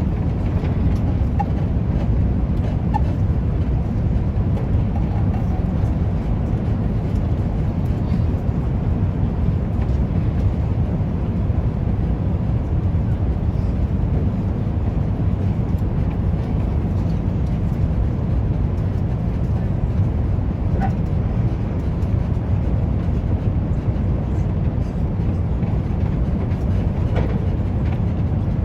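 Steady low rumble of an Airbus A350's engines and airflow heard inside the passenger cabin in flight.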